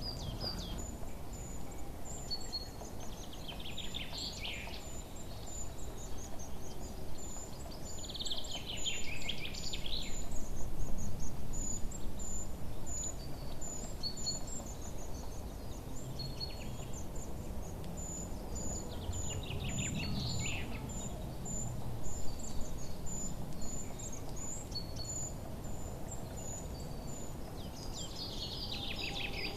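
Songbirds chirping: a high, thin chirp repeats about twice a second throughout, while another bird sings a short trilled phrase four times, every five to ten seconds, over steady low background noise.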